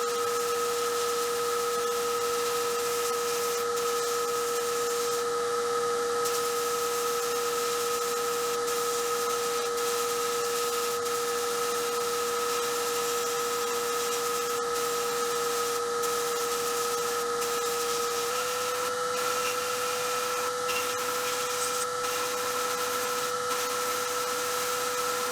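A small motor-driven workshop tool running at constant speed, a steady whine over a hiss, its pitch shifting slightly about 18 seconds in.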